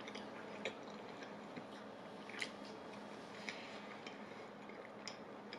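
A person chewing a mouthful of sandwich with the mouth closed: faint, soft wet mouth clicks every second or so.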